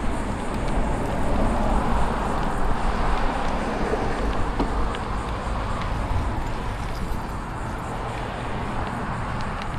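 Wind rushing over the microphone of a moving bicycle, with steady road and tyre noise.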